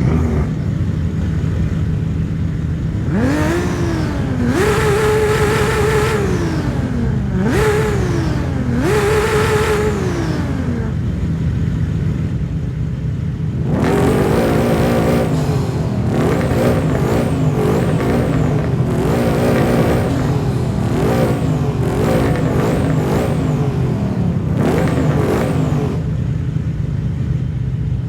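A car engine running steadily while stationary and being revved. In the first half it gives a few long revs that climb, hold and fall back. From about halfway there is a string of short, quick throttle blips, roughly one a second.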